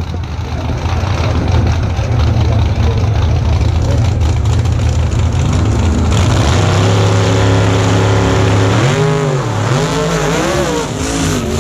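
Drag-racing car engines, first a steady low rumble at idle, then from about six seconds in revving to a held higher note. Near the end the pitch swings up and down several times as the throttle is blipped.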